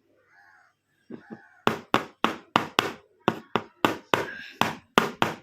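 A quick run of sharp taps, about three a second, starting about one and a half seconds in.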